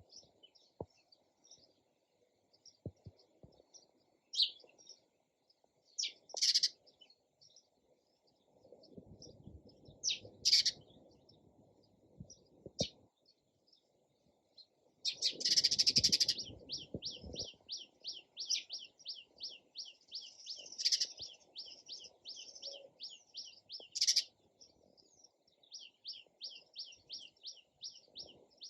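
Sparrows chirping: scattered short chirps with a few louder calls, then a long run of quick repeated chirps at about four a second through the second half. Two stretches of low rumbling noise underneath, around a third and halfway in.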